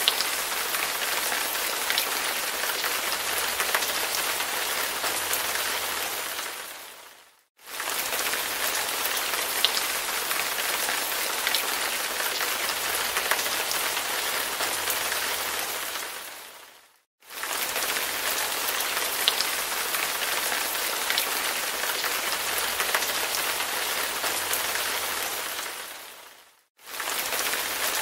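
Recorded rain falling steadily, an even hiss with scattered drop ticks. The track fades out to silence and starts again abruptly three times, about every nine and a half seconds: a short rain loop repeated.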